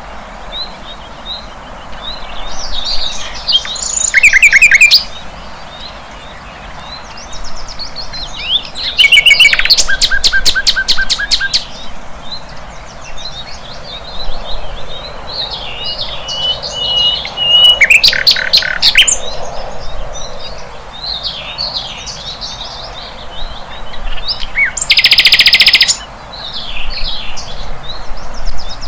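A flycatcher, the bird known in Indonesia as sikatan londo, singing a busy, varied song of short chirps and quick whistled slurs. Four louder bursts of rapid repeated notes break in through it.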